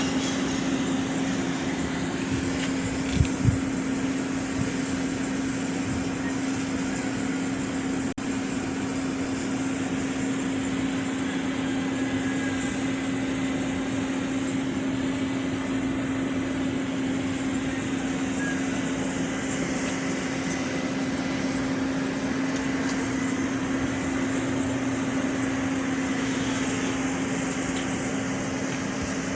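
Steady machine hum: a constant low drone over an even rushing noise, with two short knocks about three seconds in.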